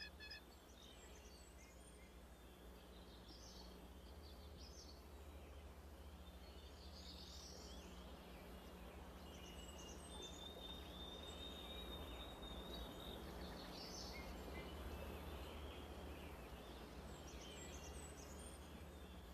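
Faint outdoor ambience with scattered faint high bird chirps and one thin, steady high tone held for a few seconds in the middle, over a low constant hum.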